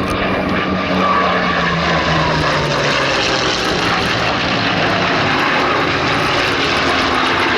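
Hispano Buchón's Rolls-Royce Merlin V12 engine running at high power as the fighter flies past, its note falling in pitch over the first few seconds, then a steady loud drone.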